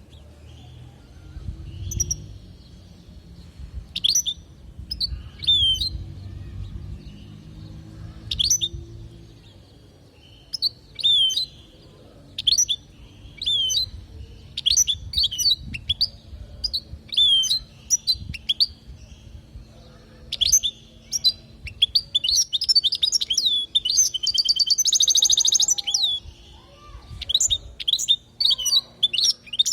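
European goldfinch singing: a long run of quick, sweeping twittered notes, with a dense buzzy trill about three-quarters of the way through. A low background rumble runs under the first third.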